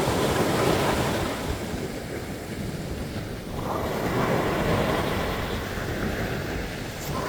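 Sea waves breaking and washing on a sandy beach, one surge swelling about every three and a half seconds over a continuous rush of surf, with some wind on the microphone.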